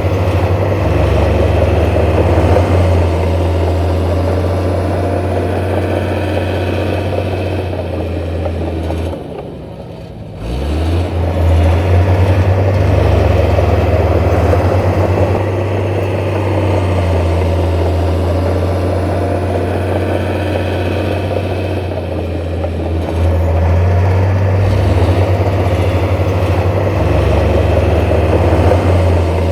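Heavy diesel construction machinery running steadily with a deep engine hum. The sound drops away briefly about nine seconds in, then picks up again.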